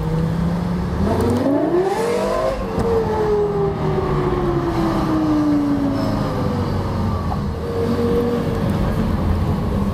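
Lexus LFA's 4.8-litre V10 heard from inside the cabin. The revs rise for about a second and a half under acceleration, then fall slowly over the next few seconds and settle to a steady low-speed run.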